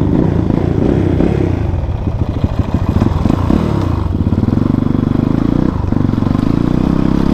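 Motorcycle engine running while being ridden on a rough off-road track, its pitch rising and falling with the throttle, with knocks and rattles through the middle.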